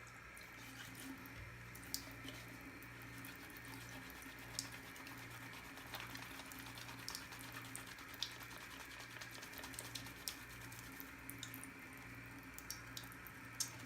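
Wet hands rubbing a sliver of handmade shaving soap into a lather: soft wet squelching with scattered small wet clicks, over a steady low hum.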